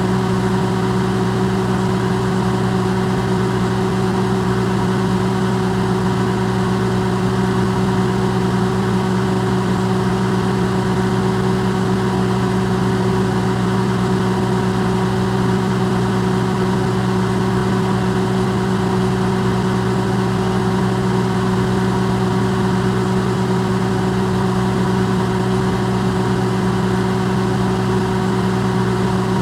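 Electrolux microwave oven running, recorded amplified: a steady low hum with a few held tones over an even hiss, unchanging throughout.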